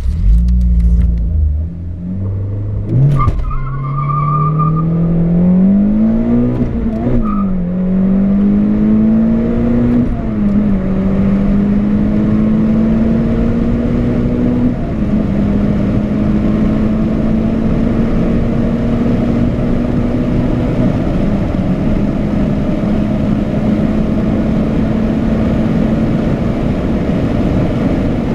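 Renault Clio Sport RS 197's 2.0-litre 16-valve four-cylinder engine at full throttle, exhaust through a Milltek mid and rear section, accelerating hard through the gears. The pitch rises in each gear and drops at each upshift, five times, climbing more slowly in the higher gears as wind and road noise build.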